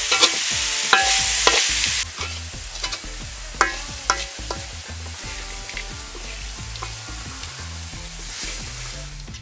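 Crickets and chopped spring onions frying in a steel wok, sizzling loudly while a metal spatula stirs and scrapes through them. About two seconds in the sizzle drops suddenly to quieter frying, with a few scrapes and clinks of the spatula against the pan.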